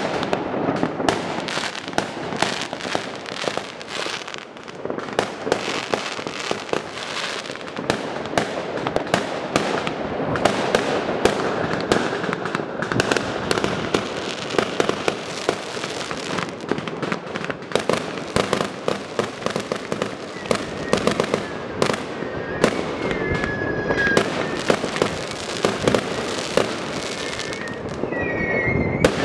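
Dense, unbroken popping and banging of many fireworks going off at once, aerial bursts and firecrackers overlapping. A few short high whistles come through near the end.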